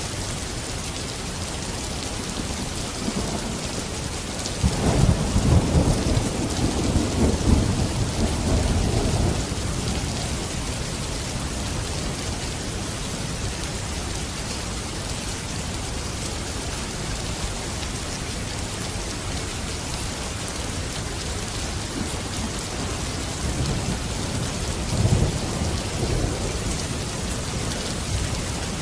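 Steady rain falling, with a rumble of thunder rolling in about five seconds in and lasting several seconds, and a fainter rumble near the end.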